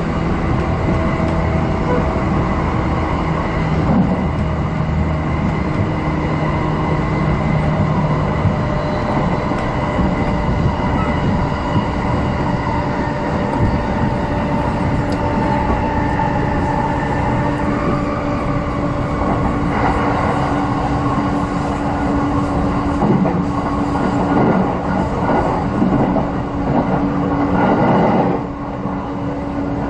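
JR East electric commuter train running at about 100 to 120 km/h, heard from inside the car: steady wheel and rail rolling noise with a held hum, and more knocks and rattles in the last ten seconds.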